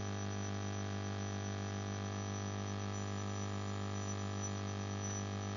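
Steady electrical hum with many evenly spaced overtones, unchanging throughout: mains hum in the recording.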